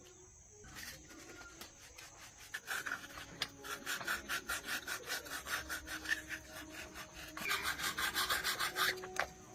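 Rhythmic back-and-forth scraping of a hand tool on a workpiece, about three strokes a second, quickening near the end before it stops.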